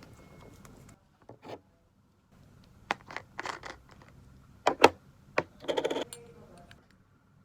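Small objects being handled: a scattering of clicks and knocks, the loudest a pair about five seconds in, followed by a short rattle.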